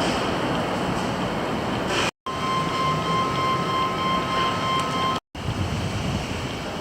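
A train running with a steady rumbling noise, with a thin steady whine in the middle part. The sound cuts out completely for a moment twice, about two and five seconds in.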